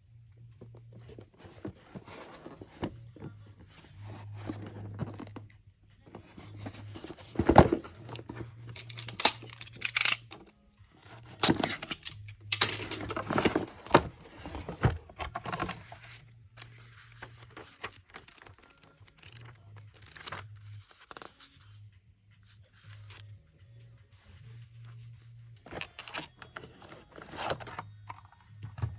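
Packaging and a boxed cordless drill kit being handled: irregular rustling, tearing and scraping with sharp clicks, busiest in the middle, over a faint steady low hum.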